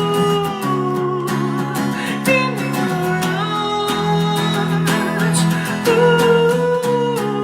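Acoustic guitar strummed in a steady rhythm with a long sung note held over it: the end of a song, played solo.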